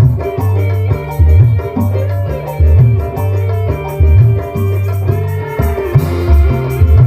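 Live dangdut band playing an instrumental passage at rehearsal: a guitar melody over a repeating bass line and a steady drum beat, with no singing.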